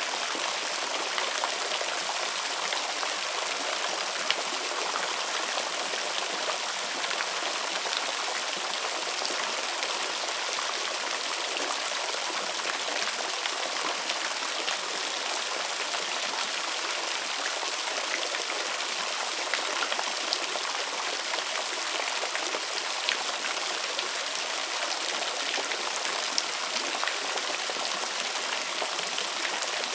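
Waterfall: falling water running with a steady hiss, sprinkled with small splashes and drips.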